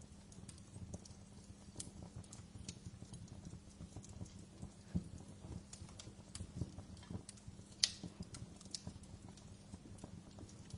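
Wood fire in a fireplace crackling: irregular sharp pops and snaps over a low steady rumble, with one louder pop about eight seconds in.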